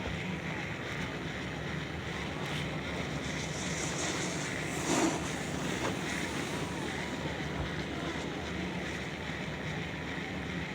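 Steady ambient noise with a low, even hum underneath and a brief swell about five seconds in.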